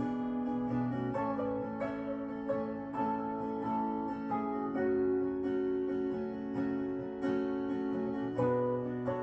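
Acoustic guitar playing an instrumental break of a song, with notes and chords ringing on.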